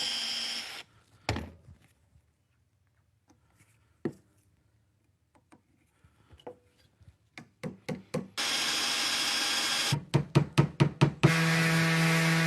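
Power drill running, boring dowel holes in wood; it stops just under a second in, followed by scattered knocks. The drill runs again briefly about two-thirds of the way in. About six quick knocks follow, then a power tool starts and runs with a steady hum near the end.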